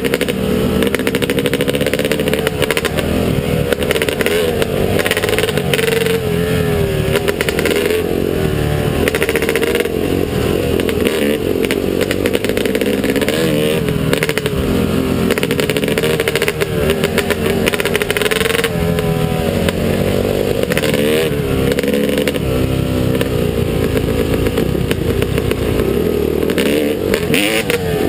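Motocross bike engine revving up and down without a break, its pitch rising and falling every second or two over a steady rush of noise.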